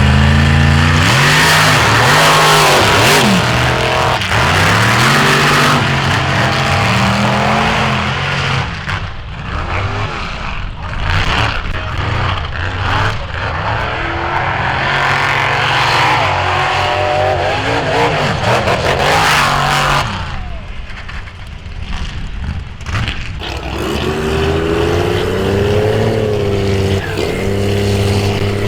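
Off-road vehicle engines revving up and down again and again, with a rushing noise over them. Near the end one engine holds a high, fairly steady rev.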